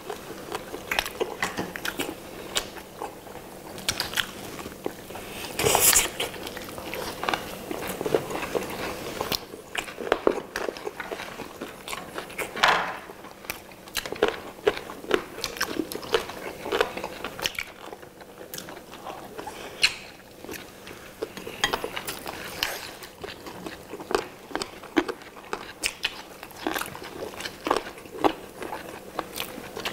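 Several people biting into and chewing glazed roast chicken legs, a dense run of small mouth clicks. Louder bites come about 6 and 13 seconds in.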